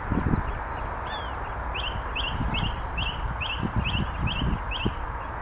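A bird calling: a run of about ten short whistled notes, each rising then dropping, repeated two or three times a second over a steady background hiss. Low rumbling thumps come at the very start and again in the second half.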